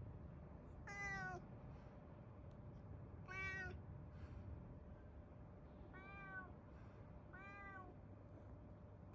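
Domestic cat meowing four times, short meows spaced about one and a half to two and a half seconds apart.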